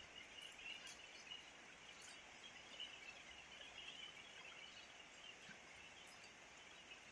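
Faint, steady hiss of light rain, with a few scattered sharp drip ticks.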